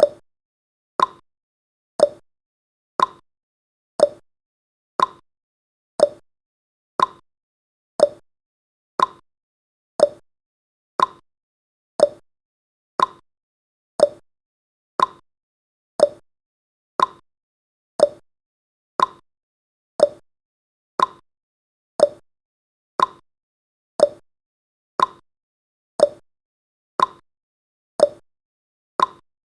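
Clock-style ticking sound effect of a countdown timer: one short, sharp tick every second, keeping an even pace.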